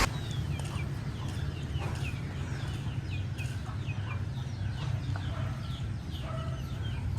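Birds chirping: many short, high chirps that fall in pitch, one after another, over a steady low rumble.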